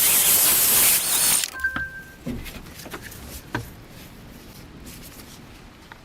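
A loud, high hiss for about the first second and a half, then small clicks and knocks of handling with faint background noise.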